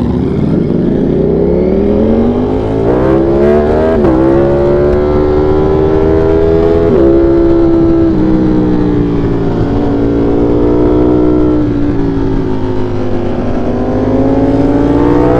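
V4 sport motorcycle engine pulling away and accelerating. Its pitch climbs over the first few seconds, with upshifts about four and seven seconds in, then it runs at a steady engine speed and picks up again near the end.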